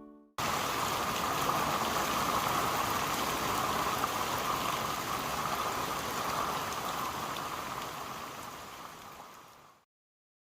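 Heavy rain falling, a steady hiss that starts abruptly and fades away over the last few seconds.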